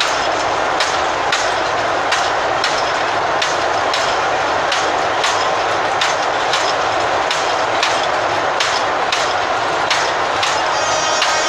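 Narrow-gauge sugar-railway train rolling past, its wheels clacking over the rail joints about two to three times a second over a steady rumble.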